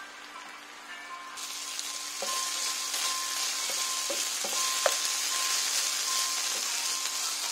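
Chicken breast strips frying in a honey-and-soy marinade in a non-stick pan, sizzling loudly as they caramelise. The sizzle swells in suddenly about a second and a half in, and a wooden spatula stirring them scrapes the pan several times.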